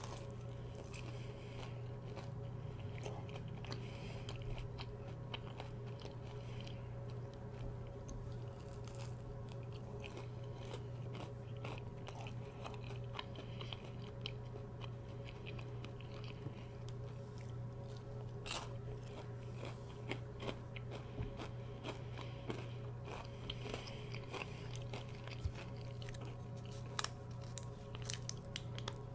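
Close-miked chewing of a breaded fried chicken tender: a continuous run of small crunches, wet mouth clicks and crackles, over a steady low hum.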